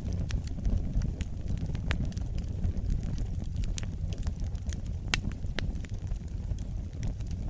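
Wood fire burning in a fireplace: a low steady rumble of flames with irregular sharp crackles and pops, the loudest about five seconds in.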